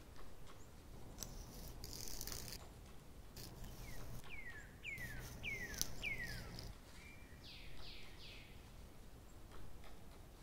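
Faint bird calls: a run of four quick downward-sliding chirps about half a second apart, a little past the middle, with a few softer calls after them.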